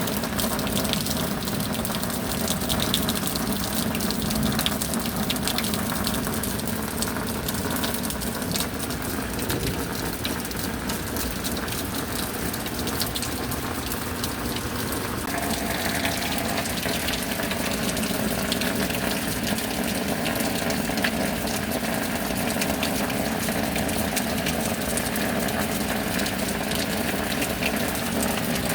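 Heavy rain pouring steadily, a dense hiss of drops with water gushing and running.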